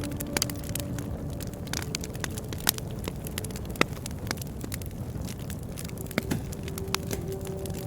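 Bonfire crackling: irregular sharp pops and snaps of burning wood over a steady low rush of the flames.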